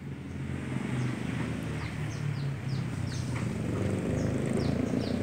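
Birds chirping repeatedly in short falling calls, over a steady low rumble.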